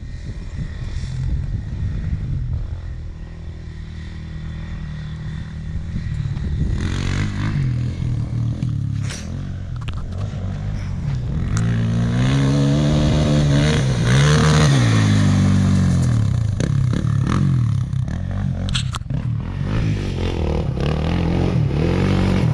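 ATV engine revving up and down while riding, its pitch rising and falling several times and loudest about halfway through. A few sharp knocks and scrapes sound over rough ground.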